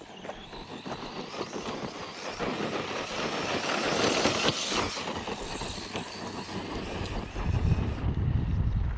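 Arrma Outcast 4S RC truck running over loose dirt and stones: a continuous gritty tyre-and-gravel noise with its motor, building to its loudest around four to five seconds in. A low rumble comes in near the end.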